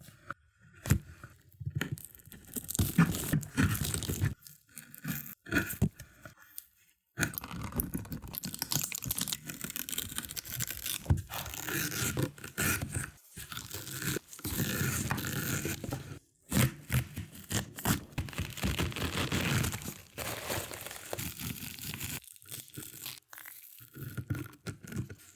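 A quick succession of ASMR slicing sounds: a blade cutting through a series of different materials, with crisp crunches, tearing and scraping, each clip lasting a second or two before it cuts to the next, with a few short silent gaps.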